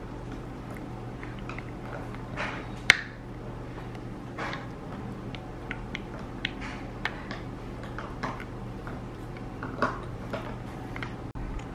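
Doberman puppies chewing and mouthing their chew toys: scattered small clicks and soft squishy noises, one sharper click about three seconds in, over a steady low hum.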